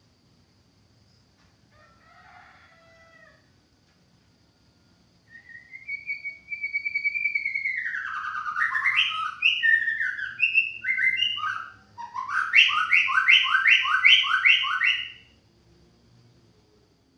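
White-rumped shama singing: a long clear whistle that glides up and down, then quick varied notes, finishing with a fast run of about seven repeated two-note phrases. The song begins about five seconds in, after a faint short call.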